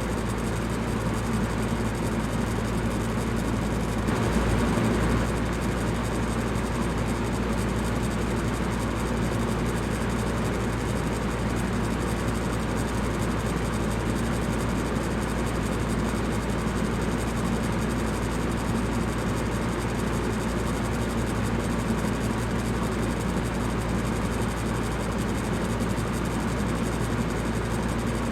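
Electric fan running steadily: an even rush of air over a low motor hum, with a brief slight swell about four seconds in.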